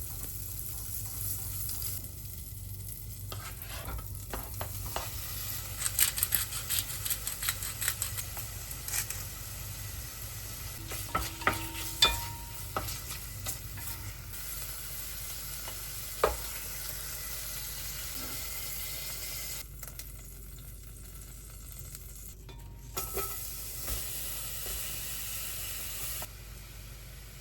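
Food sizzling in a frying pan while it is stirred, with clicks and scrapes of a utensil against the pan. The sizzle drops away briefly about two-thirds through.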